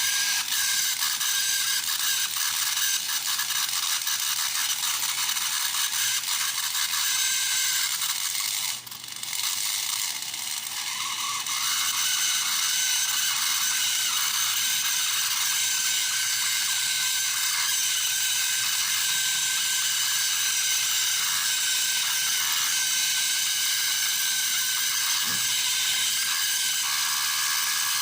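The small electric motor and gear train of an old toy horse-racing game running, a steady high-pitched mechanical run with gear chatter. It dips briefly about nine seconds in, then runs a little quieter for a few seconds.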